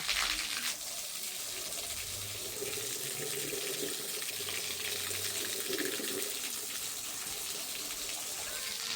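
Water running steadily, as from a tap, with a louder rush in the first second.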